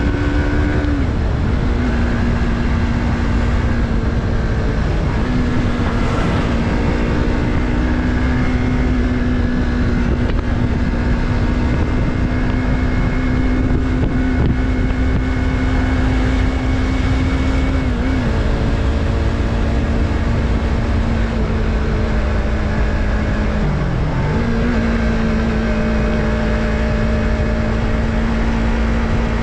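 Yamaha MT-03's 321 cc parallel-twin engine running at steady riding revs under a heavy low rush of wind and road noise. The engine note shifts in pitch a few times and dips briefly, then comes back up, about five seconds before the end.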